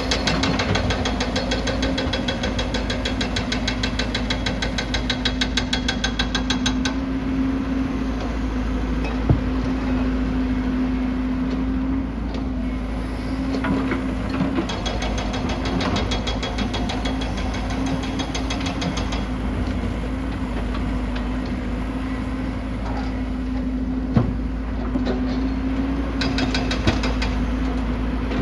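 An excavator's diesel engine running steadily, with stretches of fast, even ticking that come and go and a few sharp single knocks.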